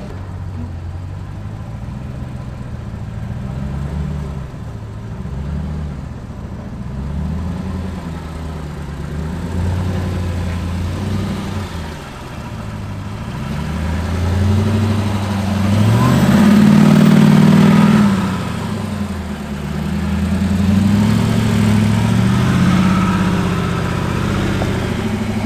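Off-road Jeep's engine revving up and down in long, slow swells as it crawls over rock, loudest about two-thirds of the way through.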